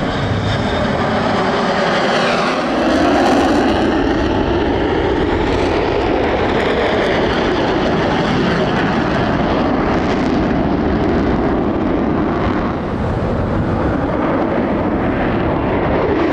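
Boeing EA-18G Growler's twin GE F414 turbofan jet engines running loud in flight, a steady rumble whose tone sweeps and shifts as the jet moves past.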